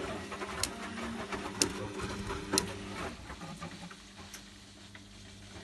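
Zanussi Lindo 100 washing machine running its rinse: the drum motor hums steadily, with three sharp clicks about a second apart. The hum dies away about three seconds in as the drum pauses.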